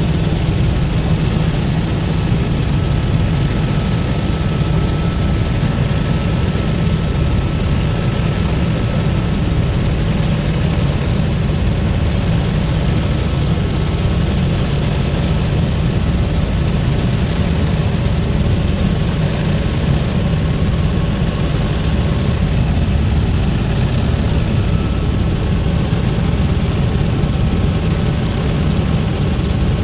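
Helicopter rotor and engine noise heard from inside the cabin in flight: a loud, steady, deep drone with a faint high whine.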